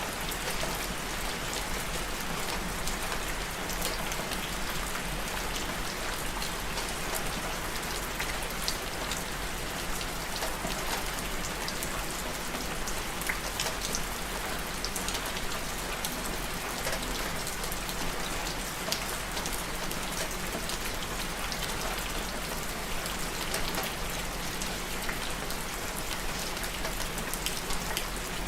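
Steady rain falling on a surface, a continuous hiss with many distinct drop ticks and patters.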